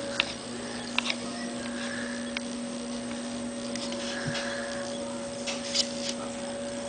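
Steady electrical hum at two fixed pitches, with a few sharp clicks scattered through it.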